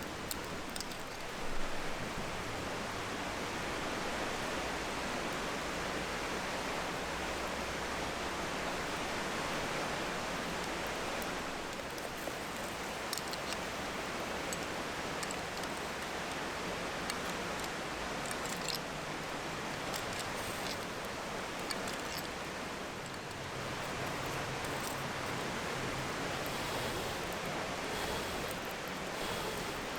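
Food cooking in an iron frying pan over a wood campfire: a steady hiss, with the fire's sharp crackles now and then.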